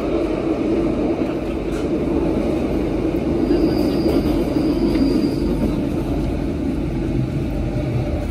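RER A commuter train running, heard from inside the carriage: a steady rumble of wheels on track. A thin high squeal rides over it for about two seconds in the middle.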